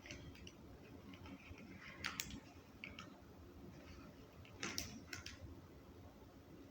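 Faint crunching from biting into and chewing a chicken sandwich: short crisp clicks in two clusters, about two seconds in and again near five seconds.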